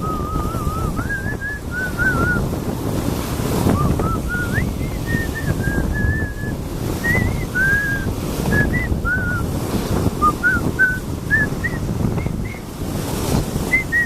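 Sea surf washing in with wind buffeting the microphone, and a thin whistling of short, wavering high notes, one after another, above it.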